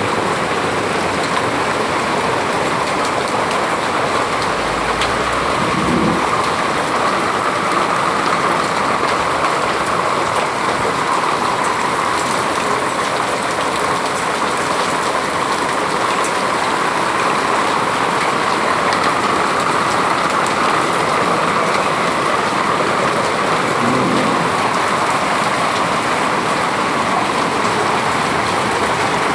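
Heavy rain mixed with hail pouring down, a loud steady hiss of water that keeps up without a break.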